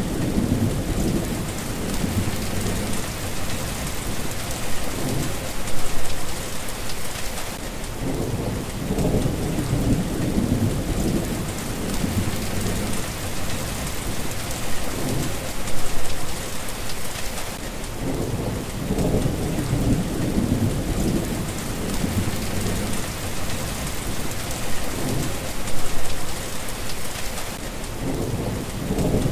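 Steady rain falling, with low thunder rumbling in the background that swells and fades about every ten seconds.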